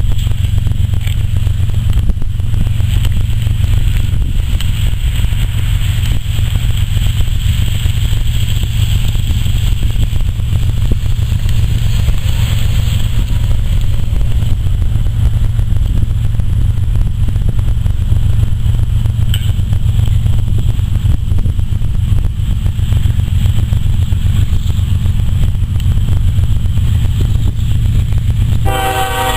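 Steady, loud low rumbling noise. Just before the end, a locomotive horn starts sounding a chord: the lead BNSF ES44AC's horn, tuned to a C minor chord.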